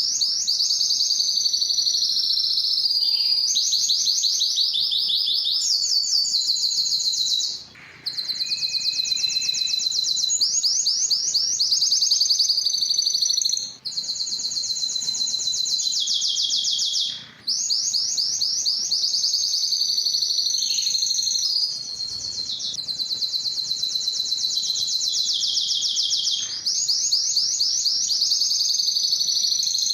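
Spanish Timbrado canary singing a long, loud song of fast trills and rolls high in pitch, changing from one tour to the next, with a few short breaks.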